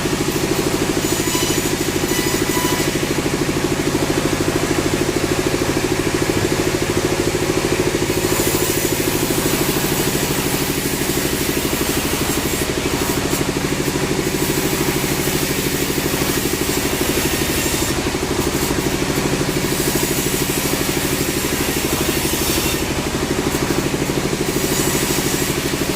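Sawmill machinery running steadily, a constant engine-like drone at an even speed.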